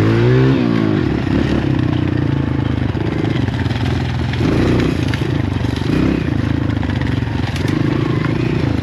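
Dirt bike engine running on a trail ride, its pitch rising and falling as the throttle is opened and closed, with a quick pitch swing in the first second.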